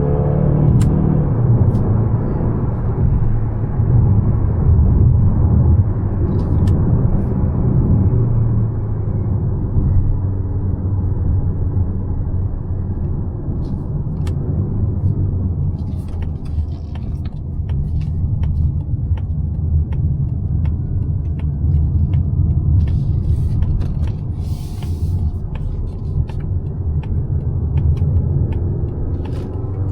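Mazda CX-5's naturally aspirated 2.5-litre four-cylinder petrol engine and its tyres giving a steady low rumble while the car is driven. Scattered light clicks and taps come through in the second half.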